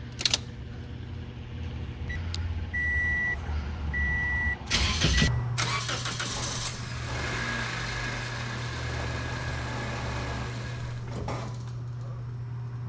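2006 Toyota Corolla's four-cylinder engine, running on Purple Power degreaser in place of oil, cranking briefly and catching about five seconds in, then idling steadily. Two short electronic beeps come before the start.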